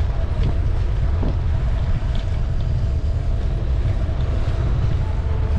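Wind rushing over the microphone of a camera on a moving bicycle, a steady low rumble with no distinct events.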